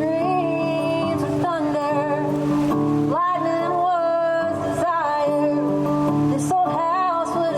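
A woman singing a slow song over guitar accompaniment, holding long notes with vibrato.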